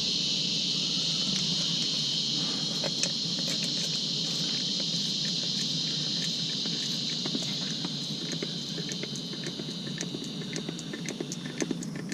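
Steady high-pitched insect chorus, crickets, that fades away near the end, with light irregular clicks and ticks that grow more frequent toward the end.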